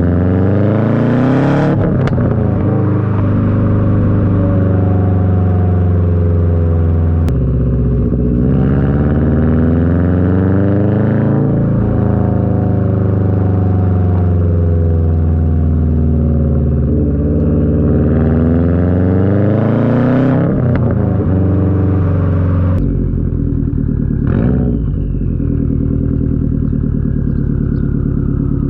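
A 2021 Subaru WRX STI's turbocharged 2.5-litre flat-four, breathing through an RK Titanium titanium catback exhaust, has its revs climb and fall three times under throttle. It then settles lower, and a turbo whistle sinks in pitch near the end.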